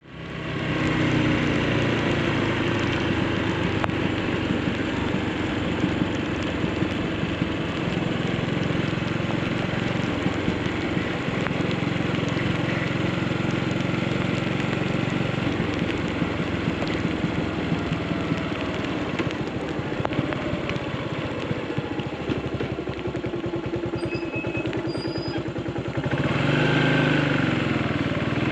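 Yamaha SR400's single-cylinder engine running steadily under way, mixed with wind and road noise. It fades in at the start and gets a little louder near the end.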